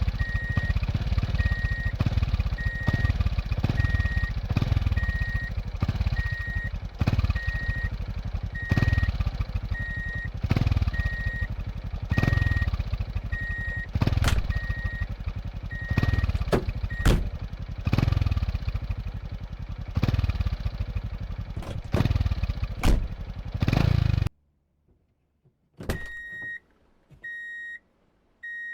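A construction machine's engine running, its level swelling and falling every couple of seconds, under a reversing alarm that beeps steadily about one and a half times a second, with a few sharp knocks. It all cuts off suddenly, and after a short silence a single-tone electronic beeper sounds about once a second.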